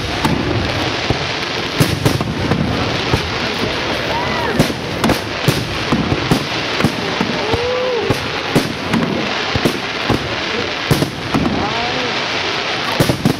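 Fireworks display: aerial shells bursting one after another, with frequent sharp bangs over a continuous crackle.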